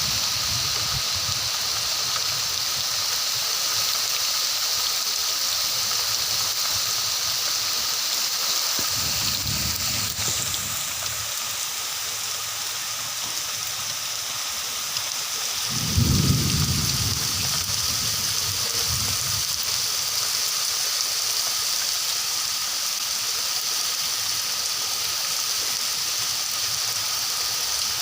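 Steady rain falling, an even hiss throughout. Low rumbles come in around nine seconds and again, louder, about sixteen seconds in.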